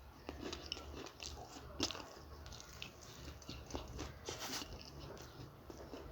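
A person chewing and biting samosa and green chilli: irregular wet mouth clicks and small crunches, with one sharper crunch about two seconds in.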